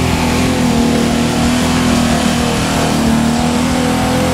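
Off-road 4x4's engine running loud at fairly steady high revs as the vehicle works through deep mud.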